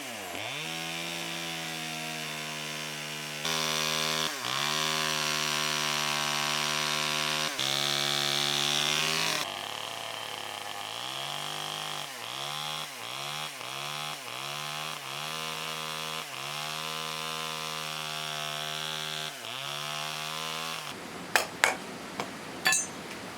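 Handheld power tool cutting wood: its motor runs at a high, steady pitch and drops in speed each time it bites into the wood, in quick repeated dips in the second half. It stops near the end, followed by a few sharp knocks.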